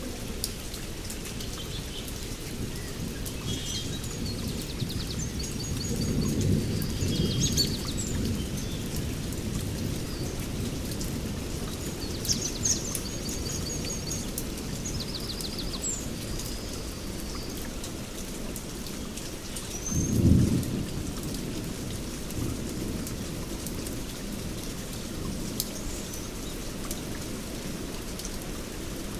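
Steady rainforest rain falling, with thunder rumbling twice: a low roll about six seconds in and a louder, shorter clap about twenty seconds in. Birds call with chirps and short trills through the first half.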